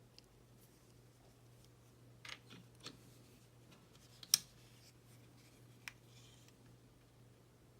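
A few scattered small clicks and taps of a screwdriver, tiny screws and plastic model parts being handled, the sharpest click about four seconds in, over a faint steady hum.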